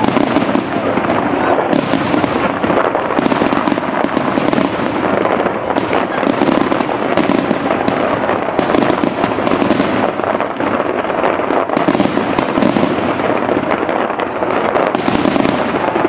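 Fireworks display going off continuously: many overlapping bangs and crackles follow one another with no pause.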